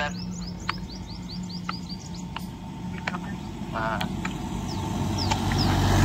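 A bird calling a quick run of about ten short high chirps over a steady low engine hum; a vehicle draws nearer and grows louder toward the end.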